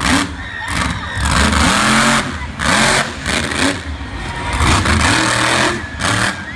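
Monster truck engine revving in repeated throttle bursts, the pitch rising and falling about once a second.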